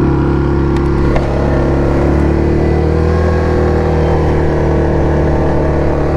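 Single-cylinder engine of a 2017 Yamaha Grizzly 700 ATV running steadily under way on the trail. The pitch rises and falls gently mid-way as the throttle changes.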